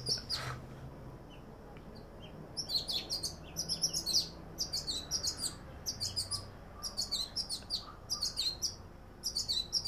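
Two pet birds chirping in quick runs of short, high notes; the chirping pauses briefly near the start, then comes back about two and a half seconds in as repeated bursts.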